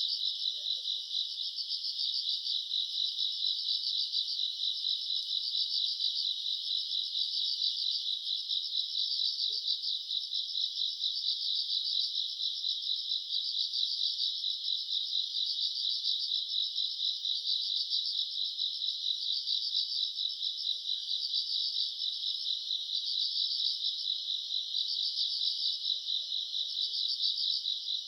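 A chorus of summer-night grass insects, crickets among them, trilling continuously. It is high-pitched and rapidly pulsing, and keeps an even level throughout.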